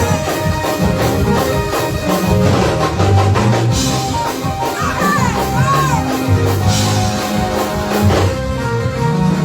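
Live church band playing uptempo gospel praise-break music, led by drum kit and bass.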